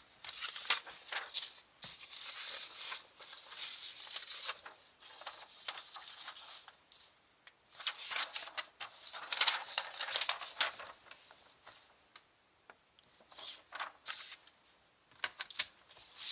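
Drawing strokes scratching across paper, in several stretches of a second or more with short pauses between.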